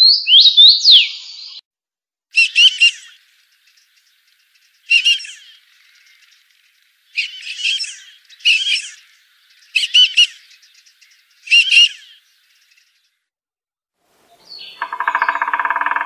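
Recorded bird calls: a few quick whistled swoops, then six short harsh calls with pauses between them, and a lower, buzzing call starting near the end.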